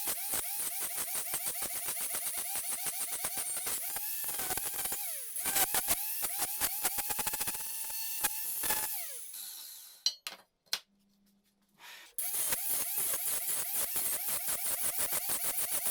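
Power tool motor whining and working under repeated load, its pitch dipping and recovering again and again over rapid clicking. The sound breaks off abruptly about ten seconds in, leaving near silence for about two seconds, then returns just as abruptly.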